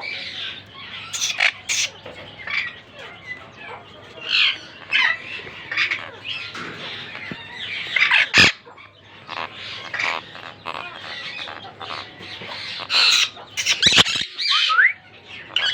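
A pair of monk parakeets (Quaker parrots) squawking and chattering in a quick run of short, harsh calls. A sharp click comes about eight seconds in, with two more near the end.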